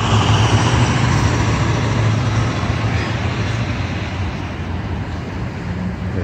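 A heavy vehicle's engine running with a steady low drone, slowly fading as it moves off.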